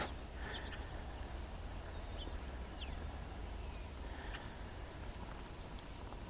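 Songbirds at feeders giving scattered short, high chip calls, a few sliding down in pitch, over a low steady rumble.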